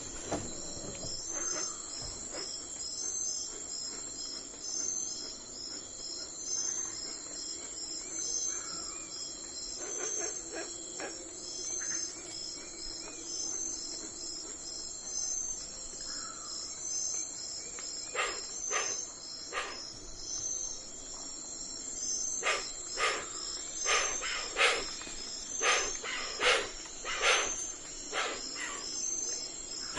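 A steady chorus of crickets chirping in an even, pulsing rhythm, with a few faint bird chirps. About eighteen seconds in, then again from about twenty-two seconds, a run of short, sharp sounds comes at roughly two-thirds of a second apart; these are louder than the crickets.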